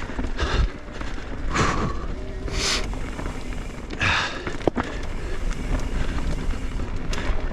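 Mountain bike riding a dirt trail: a steady low rumble of tyres and wind noise with small clicks and rattles from the bike, and three short hard breaths from the rider about one and a half, two and a half and four seconds in.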